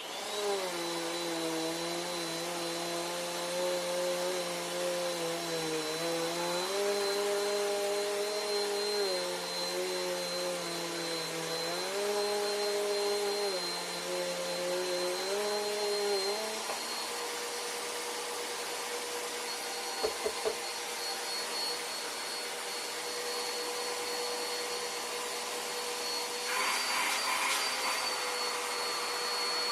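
Bissell PowerForce Compact bagless upright vacuum switched on and running over carpet laid with fine powder and dirt, with a steady high whine. The lower motor hum steps up and down in pitch for the first half, then holds steady. A few quick ticks come about two-thirds through, and a louder rushing comes near the end.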